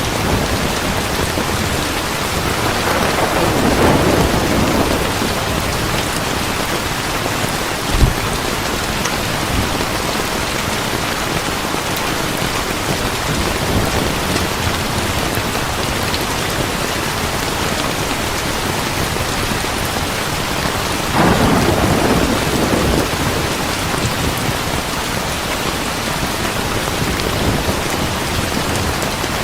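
Heavy rain pouring steadily, with thunder rumbling twice, a few seconds in and again about two-thirds of the way through. A single sharp crack about eight seconds in.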